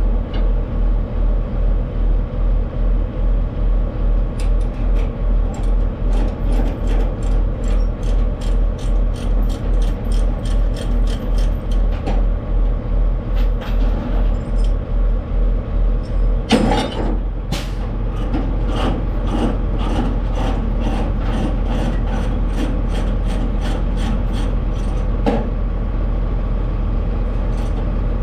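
Tractor-trailer truck on the move: a heavy low engine and road drone that pulses steadily about twice a second, then evens out into a smoother drone after a short burst of hiss about two-thirds of the way in. Regular light clicks run through much of it.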